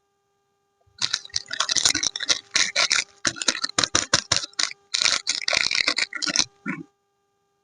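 Crinkling and crackling of soap packaging being opened by hand: a rapid, dense run of crackles starting about a second in, with a couple of short breaks, stopping shortly before the end.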